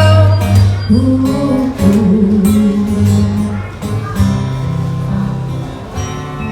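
Acoustic guitar strummed and picked in a live song, an instrumental passage between sung lines.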